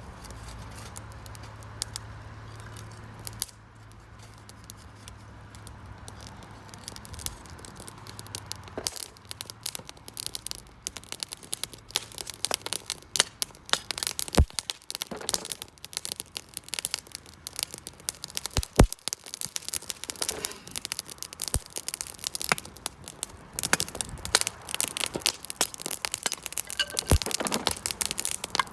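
Wood campfire crackling, with irregular sharp pops; the crackle grows denser about a third of the way in.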